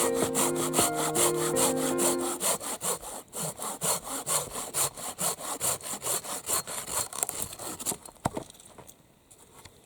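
Hand saw cutting firewood in fast, even back-and-forth strokes that fade away over the last seconds, with a single knock near the end. Background music plays under the sawing for the first two seconds or so.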